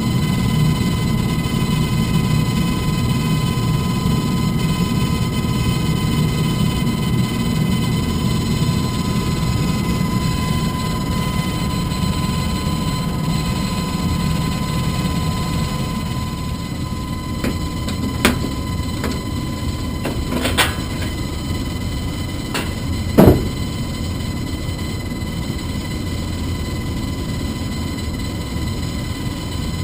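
Furnace blower running with a steady hum and a whine of several fixed tones. A few sharp knocks come about two-thirds of the way through, the last one the loudest.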